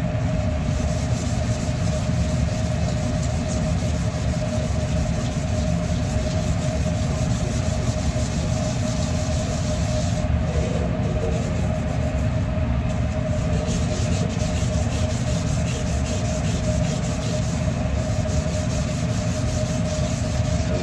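Grill screen scrubbing back and forth on a steel flat-top griddle, a continuous rough rubbing as baked-on carbon is stripped off, over a steady low hum.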